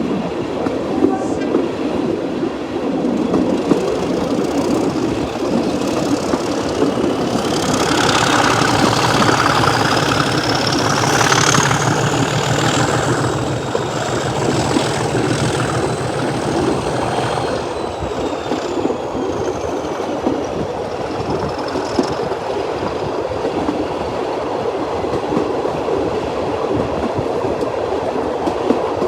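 A train running along the line: a steady rumble of wheels on rail. From about a quarter of the way in, a high wheel squeal rises in pitch, holds, and then fades away over about ten seconds.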